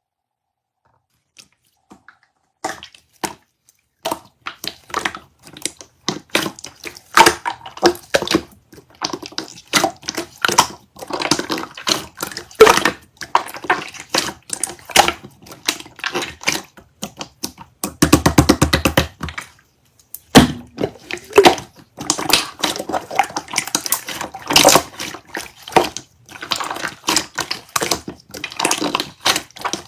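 Slime being squished and pressed by hand, making wet squelches with irregular clicking pops. A few pops begin about two seconds in and the sound soon becomes dense, with a fast, even run of pops for about two seconds past the middle, then a brief pause.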